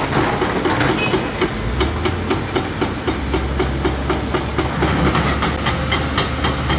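Heavy crawler excavator working: its diesel engine gives a low drone that strengthens about two seconds in, under a fast, even metallic clatter of about five clicks a second.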